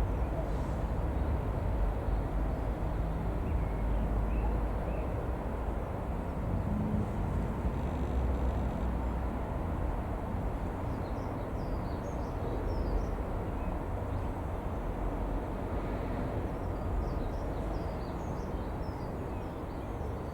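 Steady low outdoor rumble, with a small bird chirping in two short bursts of high notes in the second half.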